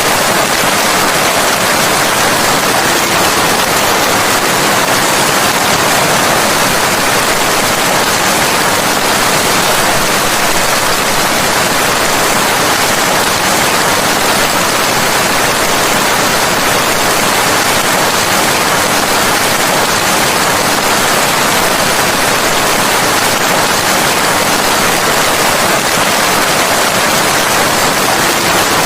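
Steady heavy rain, an even hiss with no breaks or changes.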